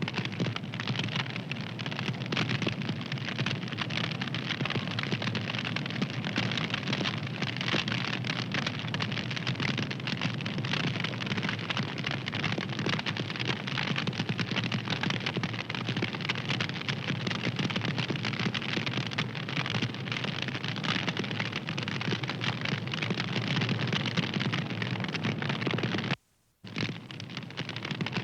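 Wood fire crackling steadily, a dense hiss of small pops and snaps. The sound briefly cuts out near the end.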